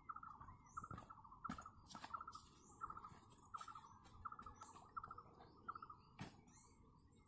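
Faint birdsong: a short chirping phrase repeated over and over, about one to two times a second, over a steady high-pitched whine, with a few soft clicks.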